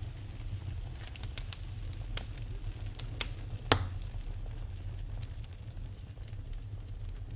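Wood fire in a fireplace crackling, with scattered sharp pops over a steady low rumble; one louder pop about halfway through.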